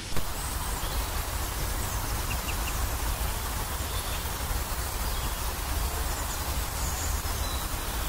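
Steady outdoor background noise with a low rumble, and a few faint high chirps about two seconds in.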